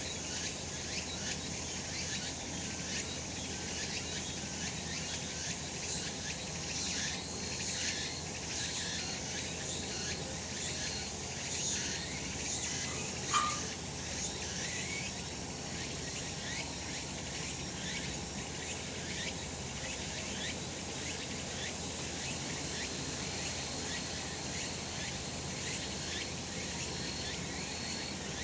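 Chorus of cicadas shrilling steadily in a rapid, overlapping pulsing buzz. About 13 seconds in, a single short, sharp sound cuts through once.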